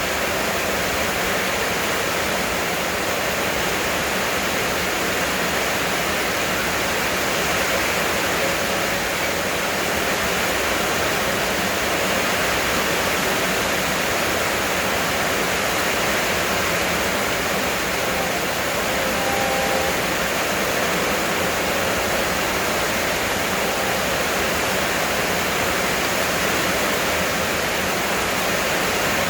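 Heavy rain falling steadily: a dense, unbroken hiss of downpour.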